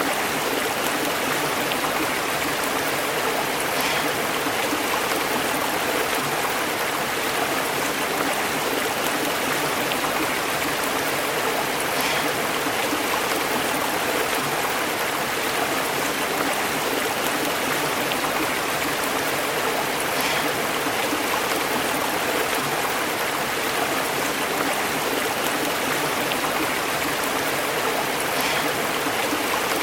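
A stream burbling and bubbling over rocks: a steady, unbroken rush of flowing water.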